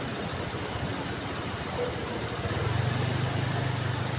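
Heavy rain falling steadily. About two and a half seconds in, a low engine hum comes in under the rain and holds.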